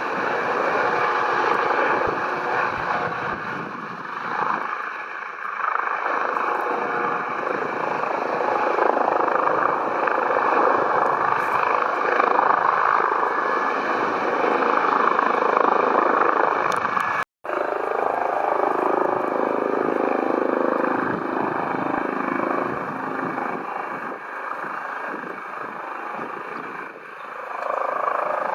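Twin-turbine Airbus Helicopters EC135P3 running nearby: a steady turbine and rotor noise with a high whine held on one pitch. The sound drops out for a split second about 17 seconds in.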